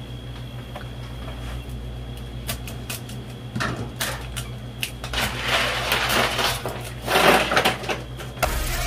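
Lobster shell crackling and crunching under the hands on a cutting board, with scattered clicks and two louder crunching bursts about five and seven seconds in. Near the end a steady machine hum starts, which fits the ice grinder being switched on.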